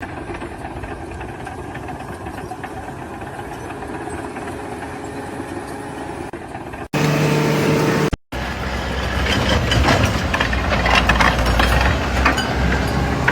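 Engines of construction vehicles or machinery running, in several short cuts: a steady engine noise for about seven seconds, a brief held tone, then a louder low engine rumble with clattering knocks.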